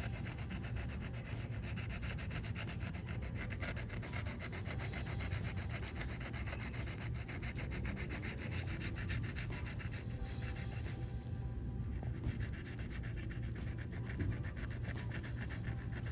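Hand file scraping back and forth over the curb-gouged edge of an aluminium alloy wheel rim in rapid continuous strokes, smoothing down the rough chunks of the scuff; it lets up briefly about eleven seconds in. A steady low hum runs underneath.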